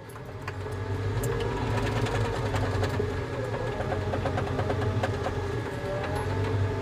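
Volvo tracked skid steer's diesel engine running and growing louder over the first second or two as the machine drives, with a wavering higher whine and light clatter over the steady engine hum.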